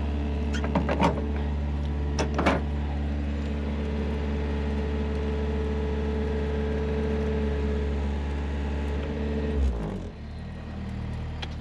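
Skid steer engine idling steadily, with a few sharp clunks in the first three seconds. About ten seconds in the engine is switched off and winds down to a stop.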